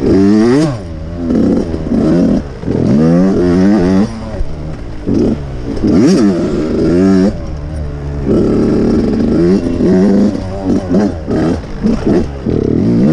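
Dirt bike engine being ridden hard, revving up and dropping back again and again, its pitch climbing and falling with each burst of throttle and gear change.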